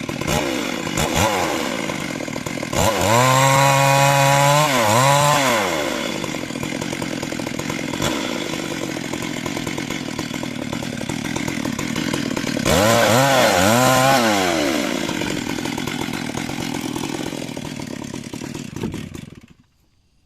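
Two-stroke chainsaw running, revved up hard twice for a couple of seconds each, then switched off near the end.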